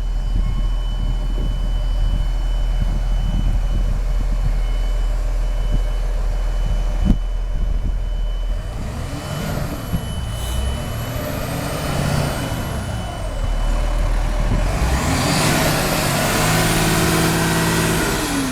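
Blue Bird All American bus engine idling steadily, then revved up and let back down several times, with a high whine rising and falling with the revs; the longest and loudest rev comes near the end. A single sharp click sounds about seven seconds in.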